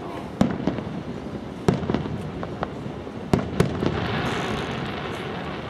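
Aerial fireworks shells bursting: four sharp bangs in the first four seconds, the last two close together, followed by a steadier hiss.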